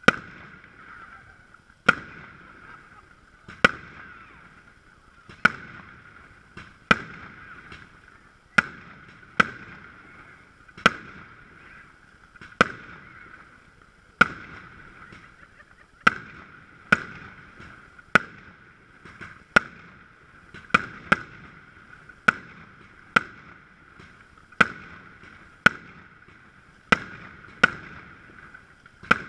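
Aerial fireworks bursting overhead in steady succession: about two dozen sharp bangs, one every one to two seconds, each dying away quickly.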